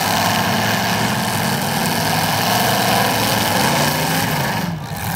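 Engines of several demolition derby cars running together in a loud, steady drone.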